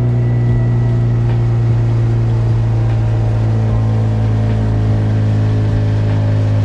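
Small fishing boat's motor running at a steady, low even pitch while the boat is under way at reduced speed.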